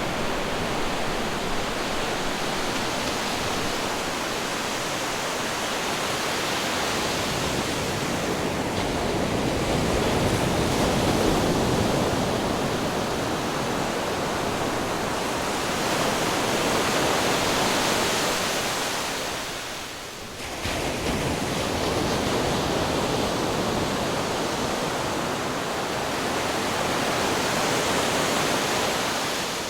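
Ocean waves crashing and washing over rocks in a continuous loud rush of surf. It swells and eases with the waves, with a brief lull about two-thirds of the way through.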